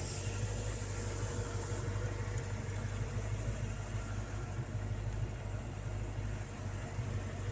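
Steady low mechanical hum, unchanging throughout, with a faint higher tone over it.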